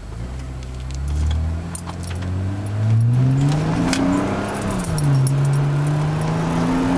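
Supercharged TRD Aurion V6 running through a pair of Magnaflow mufflers, revving up slowly over about three seconds. The revs dip briefly and then hold steady at a raised speed.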